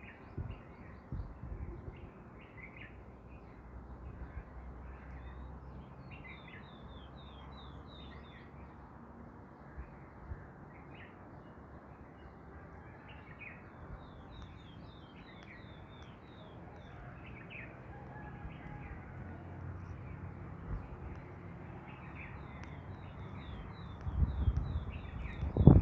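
Birds chirping and calling, with several quick runs of high notes, over wind rumbling on the microphone. A stronger gust of wind on the microphone comes in near the end.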